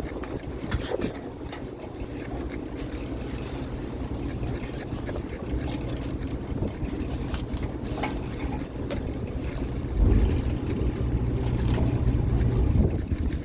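Fishing boat's engine running steadily, with scattered short knocks; the engine grows louder and deeper from about ten seconds in until near the end.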